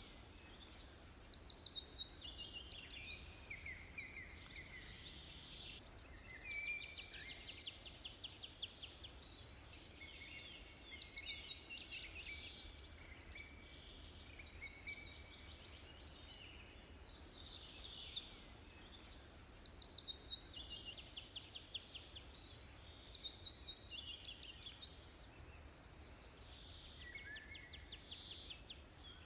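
Songbirds singing outdoors in repeated rapid trilled phrases, some falling in pitch, over a faint steady low rumble.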